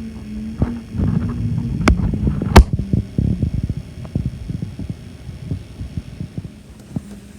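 Strong wind gusting against the microphone in irregular low thuds over a steady hum, with two sharp knocks a little after two seconds in.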